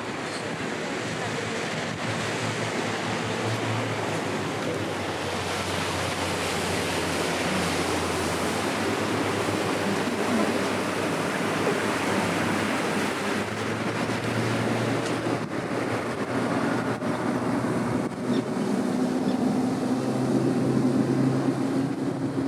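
Wind rushing on the microphone over water, with the low steady drone of a boat engine that grows stronger in the second half.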